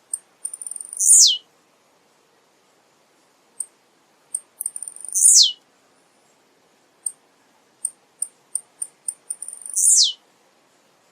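Male blue-black grassquit (tiziu) singing its short song three times: each is a few quick high ticks followed by a loud high, buzzy note that slides sharply downward.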